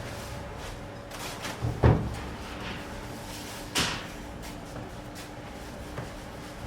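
Work knocks: a heavy thump about two seconds in, then a sharper, brighter knock about two seconds later and a small click near the end, over a steady low hum.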